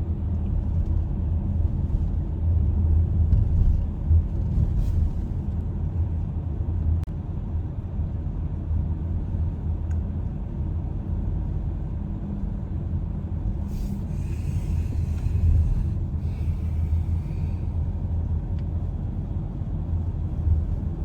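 Steady low rumble of a car on the move, road and engine noise with no speech.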